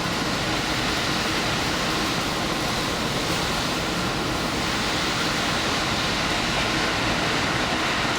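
Diesel express train running steadily at speed, a continuous, even rumble and rush of running noise.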